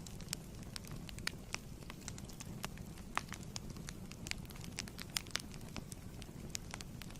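Wood fire crackling in a fireplace: a steady low rumble of flames with sharp, irregular pops and snaps, several a second.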